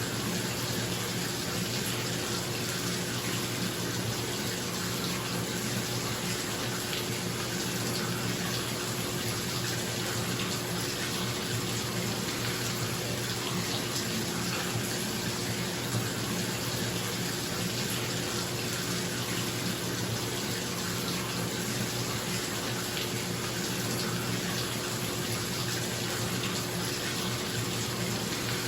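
Bathtub tap running, water pouring steadily into the tub. A bathroom exhaust fan hums steadily underneath.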